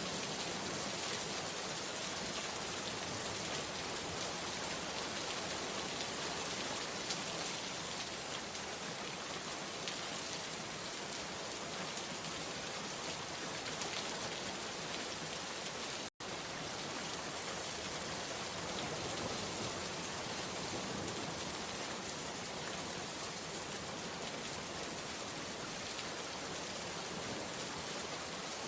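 Steady rain falling, a dense even patter of drops. About sixteen seconds in the sound cuts out for an instant and resumes unchanged.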